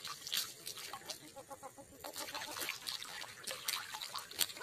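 Frogs calling in short, quickly repeated croaks, with sharp splashes and trickling water among them.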